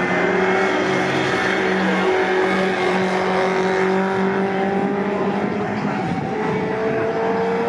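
Pre-1966 touring cars racing, several engines running hard at high revs. Their notes hold fairly steady, with one note rising near the end.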